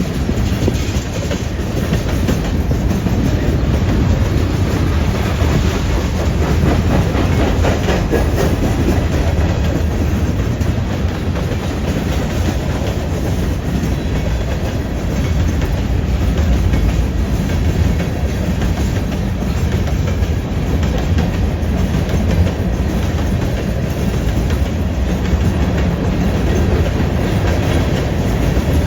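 CN freight train's cars rolling past at steady speed, a continuous heavy rumble with their wheels clattering over a junction switch.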